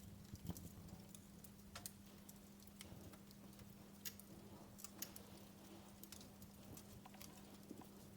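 Wood fire crackling in a fireplace: irregular snaps and pops, a few sharper ones spaced out among many small ticks, over a steady low hum.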